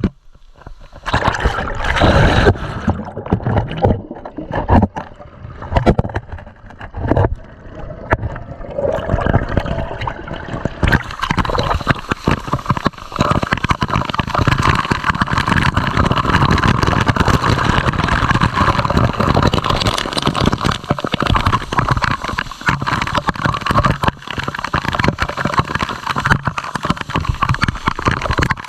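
Waterfall water rushing and splashing close to the microphone. Uneven splashes and knocks for the first ten seconds or so, then a steady rush.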